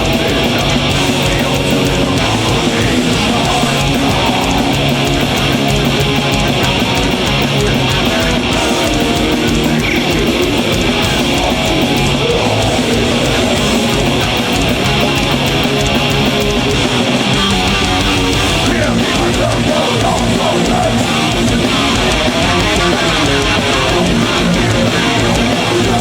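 Heavy metal band playing live at full volume: loud distorted electric guitars strumming over bass and drums.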